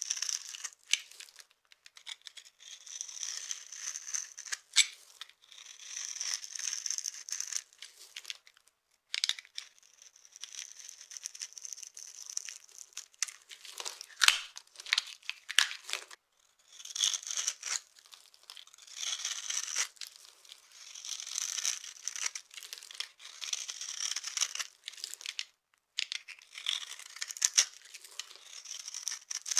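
A knife scraping through a bar of dry soap in repeated strokes, each one to two seconds long, shaving off thin curls, with sharp little cracks and crumbling between strokes.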